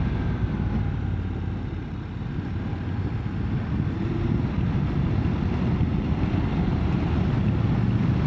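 Motorcycle on the move: the engine runs under a steady rush of wind and road noise, easing slightly about two seconds in and then picking up again.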